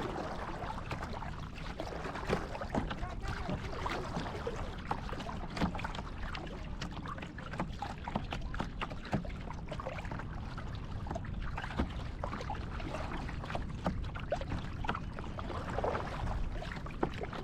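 Kayak paddling on open water: many small splashes and drips from the paddle, scattered unevenly, over a steady low rumble.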